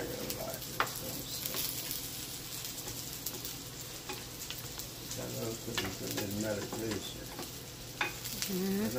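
Sausage links and diced potatoes frying in ceramic frying pans, a steady sizzle, while a spatula stirs the potatoes, with a couple of sharp clicks of the utensil against a pan.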